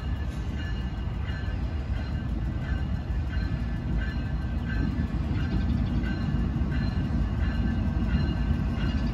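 Diesel locomotives of a CSX freight train approaching, a steady low engine rumble that grows slightly louder as they draw near.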